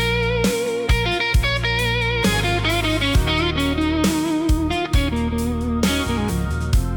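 Instrumental Southern blues music: an electric lead guitar plays bent notes with vibrato over a steady bass accompaniment and occasional percussive hits.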